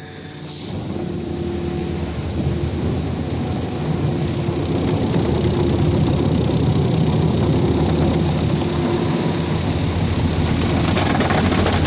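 Autec in-bay automatic car wash machinery running: a steady rushing, machine noise that swells over the first few seconds and then holds.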